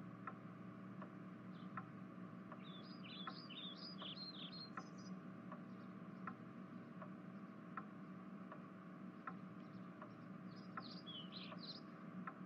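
Faint background ambience: birds chirping in two short bursts of quick twittering, over a soft regular tick a little faster than once a second and a steady low hum.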